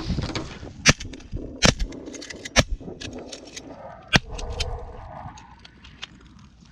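Several 12-gauge shotguns fire a ragged volley at incoming Canada geese: four loud shots roughly a second apart, with many fainter shots between and after them. Geese call through the shooting.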